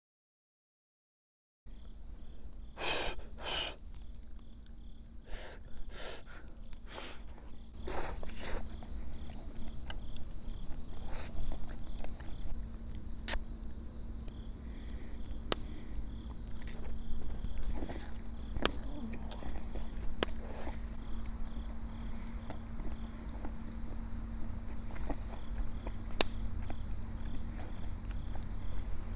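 Autumn field crickets trilling steadily, with scattered sharp clicks and knocks over it. The sound begins after a second or two of silence.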